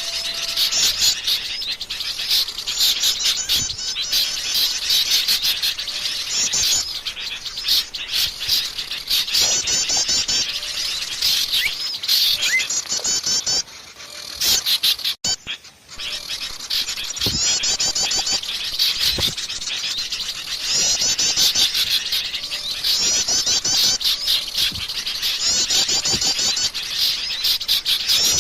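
Dense, agitated chatter of many small songbirds, overlapping chirps and fast repeated trills: a bird-trapping lure call meant to draw small birds in. The chatter drops away briefly around the middle.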